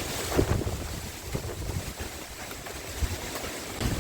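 Wind buffeting the microphone outdoors: an uneven low rumble that swells in gusts, strongest about half a second in and again near the end.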